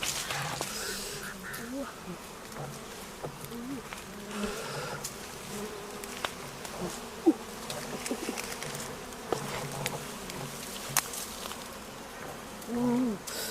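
Insects buzzing, with a few short curved calls over the drone and occasional sharp clicks.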